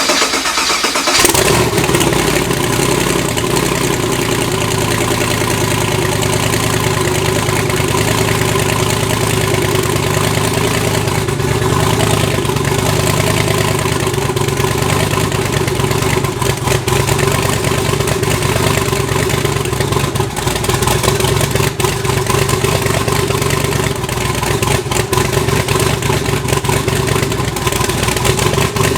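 Twin-turbo LS V8 in a Pontiac G8 being cranked and catching about a second in, then idling steadily. This is its first start after a head gasket replacement.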